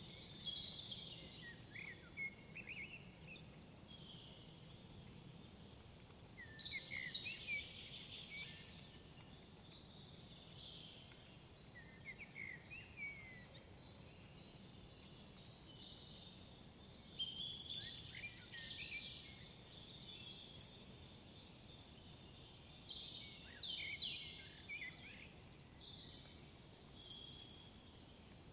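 Songbirds singing in a forest: one bird repeats a short phrase every six or seven seconds, each ending in a high trill, with other chirps between, over a faint low background rumble.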